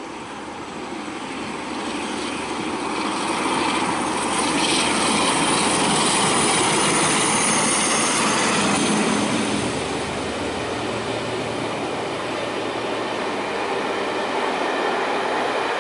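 A locomotive-hauled passenger train passes close by, its sound building over the first few seconds as the locomotive approaches. After that the coaches' wheels run steadily on the rails as the train goes past.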